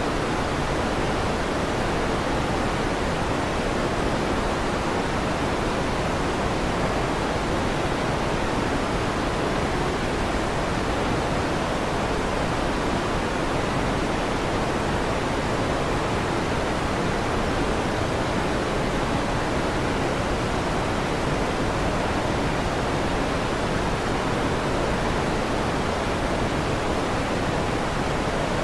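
Electric fan running with a steady, unchanging whoosh.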